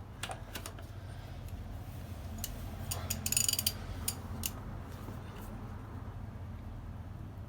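Socket wrench working a rusted exhaust manifold nut loose: scattered metal clicks, with a quick run of ratchet clicks about three seconds in, over a low steady hum.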